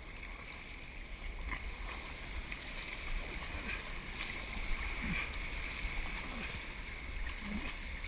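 Steady wash of ocean surf and moving water around a surf kayak, with wind rumbling on the microphone.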